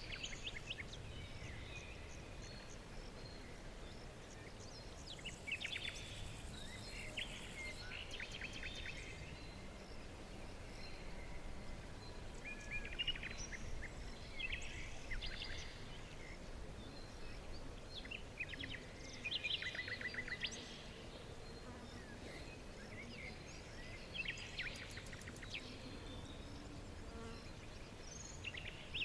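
Woodland birds singing: short phrases of rapid trills and chirps every few seconds over a steady low background hiss.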